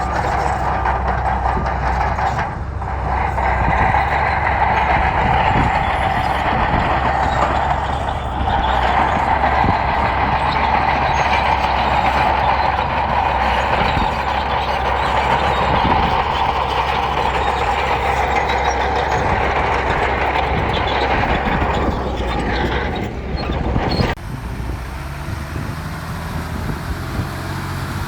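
Heavy diesel earthmoving machinery working on gravel: a steady low engine drone with a loud whine and rattling clatter over it. About four seconds before the end it changes abruptly to a quieter engine sound.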